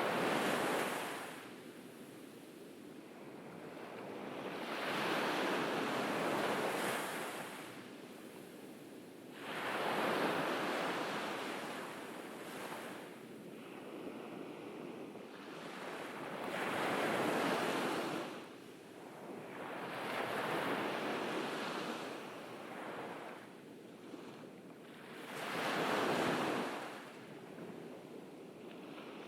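Surf on a beach, with waves breaking and washing back. About six waves swell and fade in turn, a few seconds apart.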